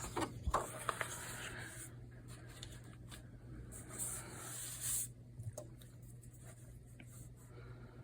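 Sheets of craft paper being handled and slid across a work surface: soft rustling with a couple of louder brushing scrapes about four and five seconds in, and a few light taps.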